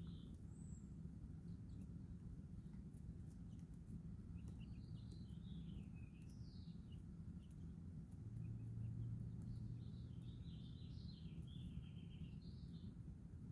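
Faint high-pitched bird chirps, some falling in pitch, coming in two clusters, over a steady low hum.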